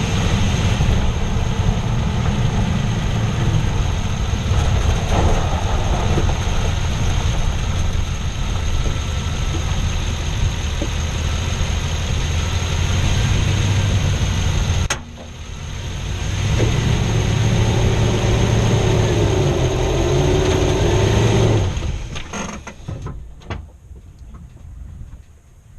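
2006 Toyota Tundra engine running, heard close up from under the hood. About 15 s in there is a sharp click and the sound dips suddenly, then builds back. It falls away about 22 s in, leaving scattered faint clicks.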